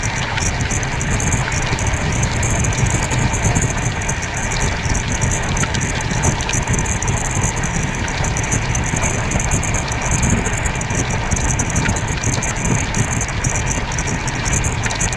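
Passenger train coach running at speed: a steady rumble of wheels on the rails with many small, irregular clicks over it, heard from the open side of the coach.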